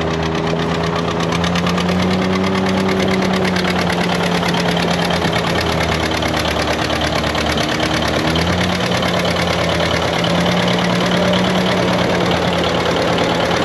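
Farm tractor engine running at a steady speed, its pitch shifting slightly about two-thirds of the way in.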